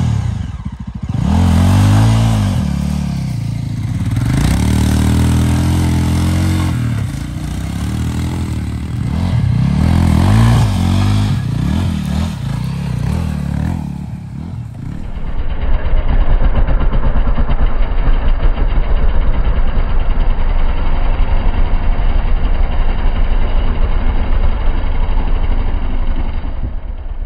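Single-cylinder motorcycle engines of a Yezdi Adventure and a Royal Enfield Himalayan, revved again and again, the pitch climbing and falling with each rev. About halfway through, this gives way to a steady, fast-pulsing engine note as the motorcycles ride off.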